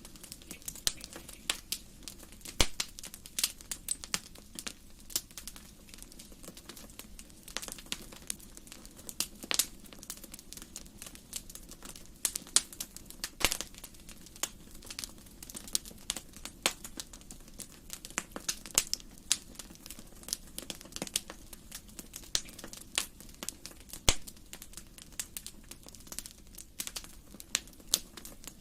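Wood fire burning in a fireplace, crackling with many irregular sharp pops, several a second, over a low steady rush.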